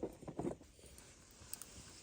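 A few short, soft knocks or crunches in quick succession near the start, then only a faint steady hiss.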